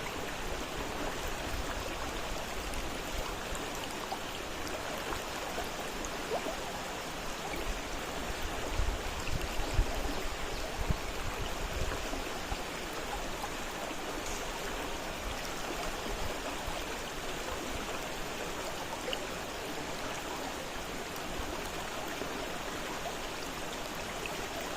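Fast-flowing river water rushing steadily, with a few low rumbling bumps around the middle.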